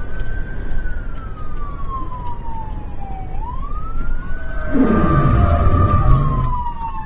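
Police siren wailing in slow rising and falling sweeps over steady engine and road noise during a pursuit. About five seconds in, a louder, deeper rumble swells and drops in pitch.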